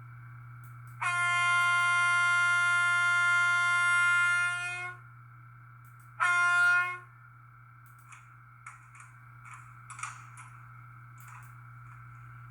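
Sound decoder in a TT-scale DR class 211 model diesel locomotive sounding its horn through the model's small loudspeaker: one long blast of about four seconds, then a short blast. A steady hum runs underneath, and faint clicks follow near the end.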